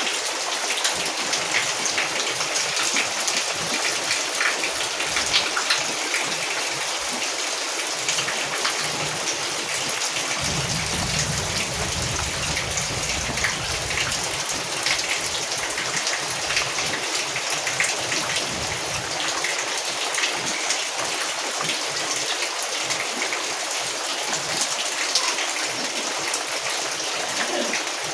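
Steady rain falling, a dense even hiss with many small drop impacts. A low rumble comes in for a few seconds around the middle.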